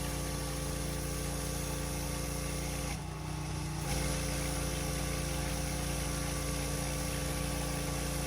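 Petrol pressure washer engine and pump running steadily under the hiss of the water jet. About three seconds in the hiss drops away for about a second, then comes back slightly louder.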